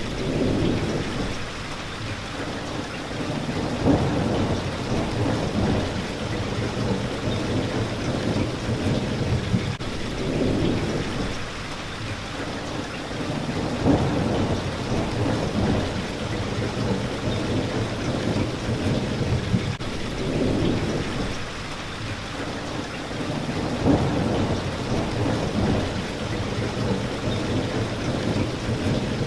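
Steady rain hitting a window, with low thunder rumbles that swell and fade several times, about every ten seconds.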